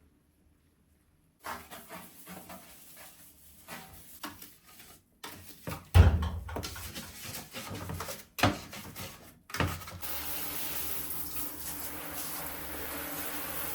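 Knocks and clatter of objects being handled, with one loud thump about six seconds in, then a water tap running steadily into a sink from about ten seconds in.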